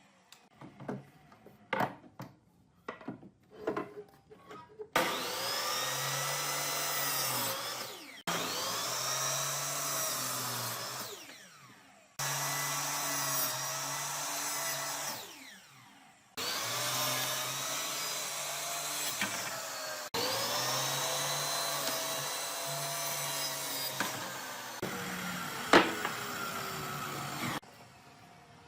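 A few light taps and knocks, then an electric power tool running on wood in several stretches of three to four seconds each, its pitch wavering as it works. A sharp knock near the end.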